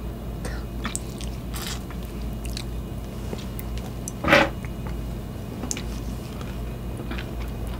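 Close-miked biting and chewing of fresh strawberries, with scattered small clicks and one louder mouth sound a little over four seconds in.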